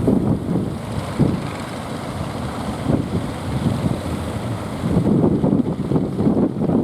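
Strong wind buffeting the microphone in irregular gusts, a low rumbling rush that eases briefly in the middle.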